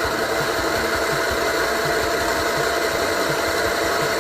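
Tuttio GB electric dirt bike's motor whining at a steady high pitch at full throttle in Sport mode, its top-speed run, over a steady rushing noise.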